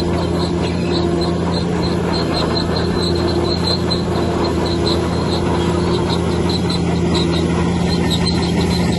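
Heavy earthmoving machine's engine running at a steady speed, with a quick series of faint high chirps over it.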